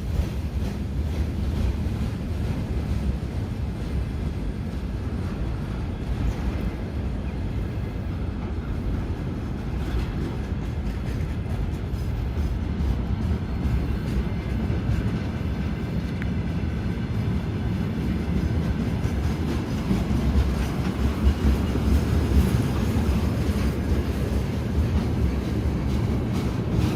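Train running on the rails: a steady low rumble that grows a little louder for the last several seconds.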